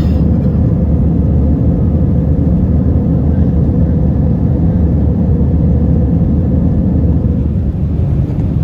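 Airliner cabin noise: a steady low rumble of the engines and rushing air, with a faint even hum above it.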